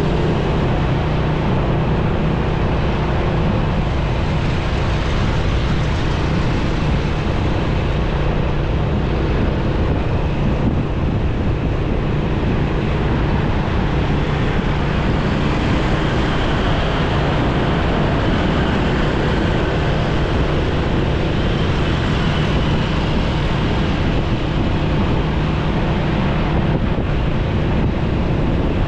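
Motorcycle engine running steadily on the move, with wind rushing over the microphone and road traffic around.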